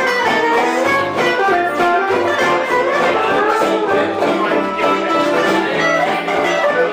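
Live gypsy-style band music: a guitar keeps up a quick rhythm while a violin plays the melody.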